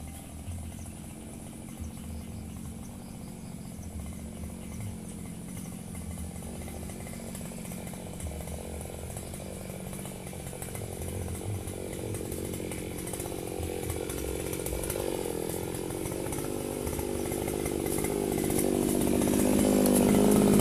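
Firman FGB 528 two-stroke brush cutter engine running steadily, growing louder toward the end.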